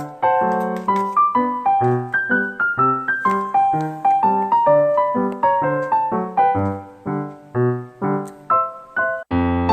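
Background piano music: a gentle melody of single notes over a simple bass line, with a fuller, louder passage starting near the end.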